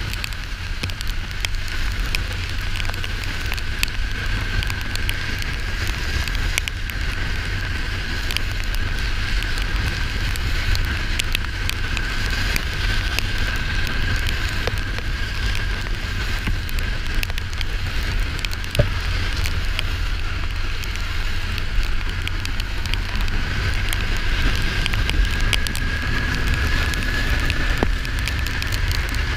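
Kawasaki Ninja 400 ridden at a steady cruise: heavy wind rumble on the rider's microphone over a steady engine note that rises slightly near the end, with scattered crackles and ticks.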